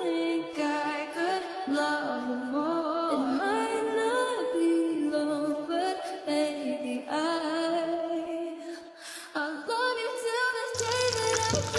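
Background music: a woman singing unaccompanied, a cappella. About a second before the end, a steady hiss with a low hum cuts in.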